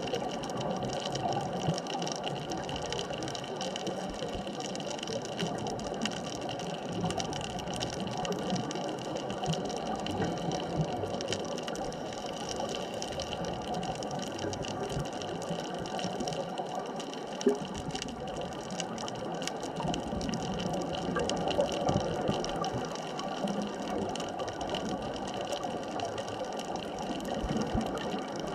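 Underwater ambient noise: a steady watery wash with fine crackling and a few faint steady tones, and one short louder tick about two-thirds of the way through.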